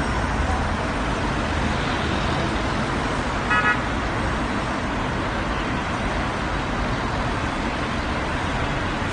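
Steady road traffic noise, with a short double beep of a car horn about three and a half seconds in.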